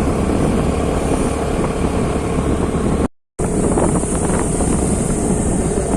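Wind buffeting the microphone over a moving motorcycle's engine and road noise, steady throughout. The sound cuts out completely for a moment about halfway through.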